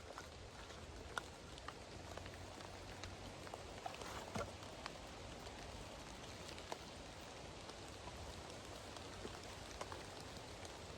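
Faint outdoor ambience with scattered light ticks and taps at irregular intervals.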